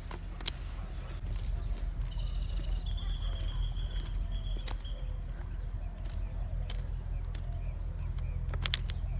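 Birds calling outdoors: a run of quick high notes a couple of seconds in, then a fast ticking trill, over a steady low rumble and a few scattered clicks.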